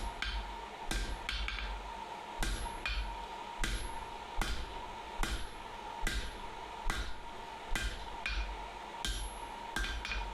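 Hand hammer striking hot steel bar stock on an anvil, a little over one blow a second with a short ring after each, as 3/4 inch round is forged down toward flat stock. A steady hum runs underneath.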